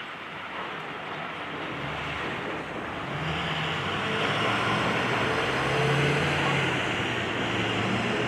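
A heavy engine running under load with a steady rushing, grinding noise. It grows louder about three seconds in.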